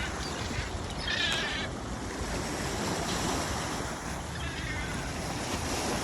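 Gulls calling over steady wind and water rush, with one loud call about a second in and a fainter one past the middle.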